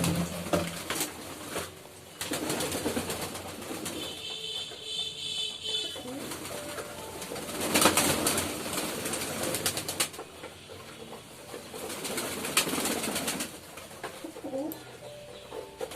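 Domestic pigeons cooing in low, steady tones, with repeated bursts of rustling and scuffling noise among them.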